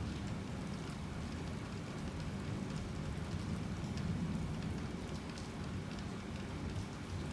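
Heavy rain falling steadily, with individual drops ticking sharply among the even hiss.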